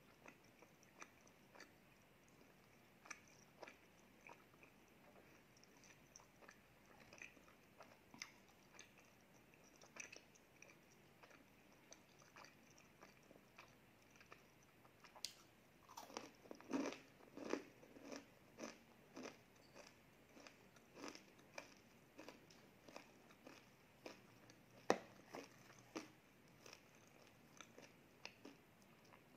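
Quiet close-up eating sounds: soft mouth clicks and chewing, with a louder run of crunching about halfway through as a small crisp cookie is bitten and chewed. One sharp click stands out near the end.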